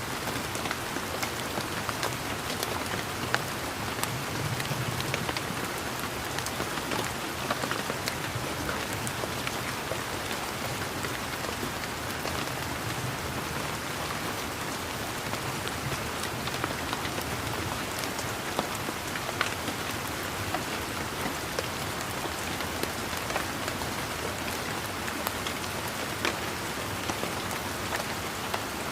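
Steady rain falling, with many individual drops ticking sharply among the even hiss of the downpour.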